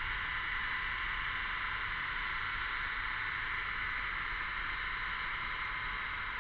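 A chorus of cicadas buzzing steadily, a continuous high-pitched sound with no breaks.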